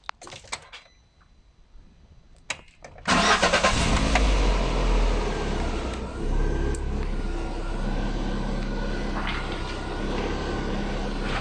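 Lada Kalina's VAZ-21126 1.6-litre 16-valve four-cylinder engine starting. After a few faint clicks it catches suddenly about three seconds in, runs at raised revs for a couple of seconds, then settles into a steady idle.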